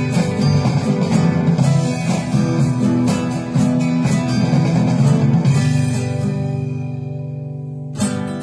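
Guitar strumming a song's closing bars. The last chord is left to ring and fade away, and one more strum comes near the end.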